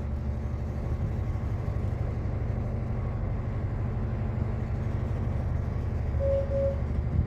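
Steady low hum of a tanker's engines and machinery, as heard on the ship's bridge. About six seconds in, two short electronic beeps sound.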